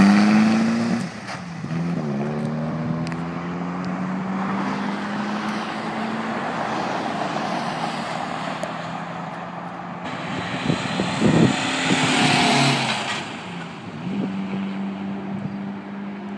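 1948 MG TC's four-cylinder engine running steadily after its revving drops off about a second in, with a louder swell of engine and road noise about ten to thirteen seconds in.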